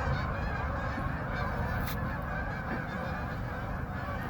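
A large flock of Canada geese honking continuously, many calls overlapping into a dense chorus, over a steady low rumble.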